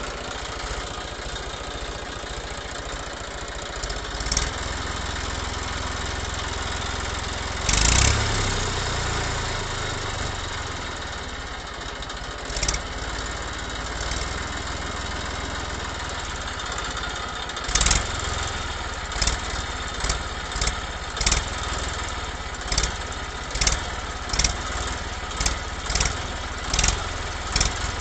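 A small motor, the DIY toy tractor's, running steadily. A few knocks come through it, and in the second half a regular thump sounds a little more than once a second.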